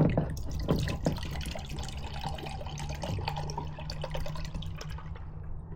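Water being poured into a container, with a trickling, dripping sound and small clicks and knocks of handling.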